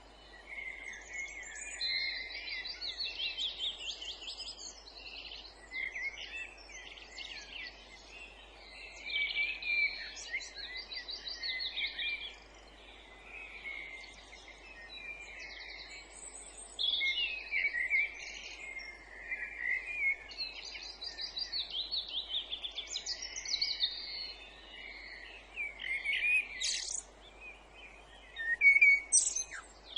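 Several songbirds singing at once in a dense, overlapping chorus of trills, warbles and whistled phrases, with a faint steady background hiss.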